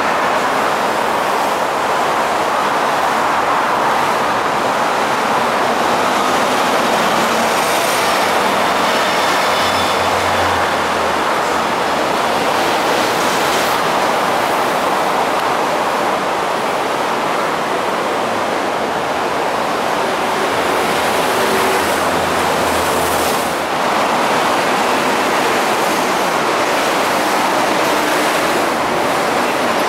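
MTR electric train passing: a steady rushing noise of wheels on rail, with a few faint high-pitched whines in the first half.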